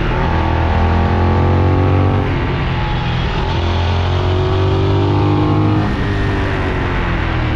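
Benelli 752S motorcycle's parallel-twin engine running on the move, its note climbing gently, with shifts in pitch about two and six seconds in. Steady wind and road noise runs underneath.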